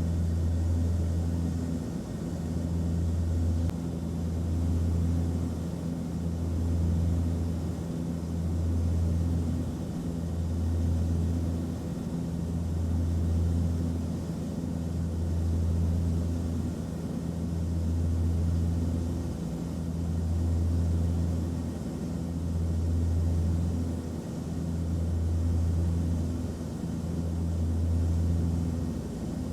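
Airliner cabin noise: a low drone of engines and airflow over a steady hiss, with the hum swelling and dipping about every two seconds.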